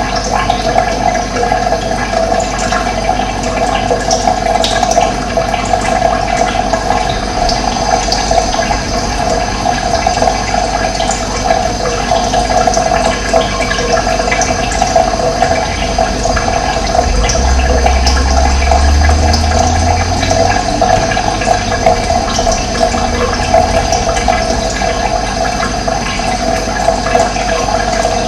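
Running water rushing steadily, with a low rumble swelling for a few seconds past the middle.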